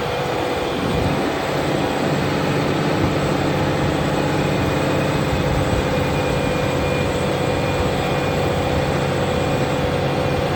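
Large Fendt tractor's engine running steadily under load, a constant low drone with a steady higher tone held above it.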